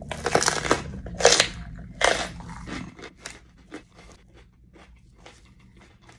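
A person biting into and chewing a poblano pepper: three loud crunches in the first couple of seconds, then quieter, steady chewing that fades.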